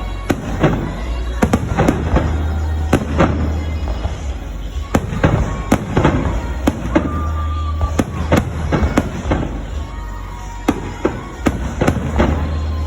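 Aerial fireworks going off in quick succession, a string of sharp bangs and crackling bursts about two or three a second.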